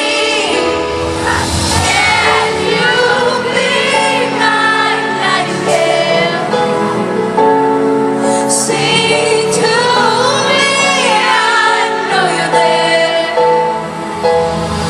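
Live pop ballad performance: a female lead voice singing over band accompaniment, with many voices seeming to sing along.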